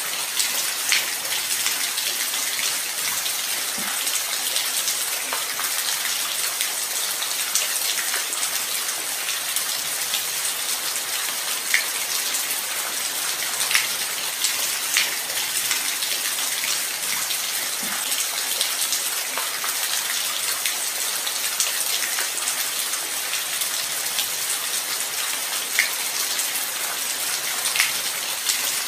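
Light rain falling steadily, a constant hiss with individual drops ticking sharply every second or two.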